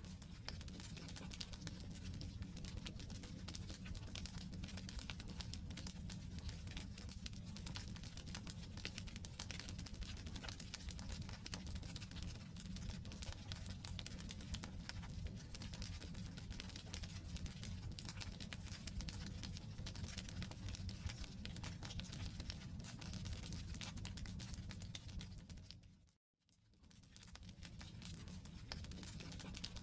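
Wood campfire burning: a dense, continuous crackle of small pops over a low rumble of flame. About 26 seconds in the sound briefly fades to nothing and fades back in.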